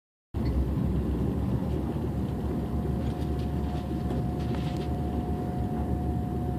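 Passenger-cabin noise of an ICE high-speed train running at speed: a steady low rumble with a constant high whine over it, and a few faint ticks around the middle.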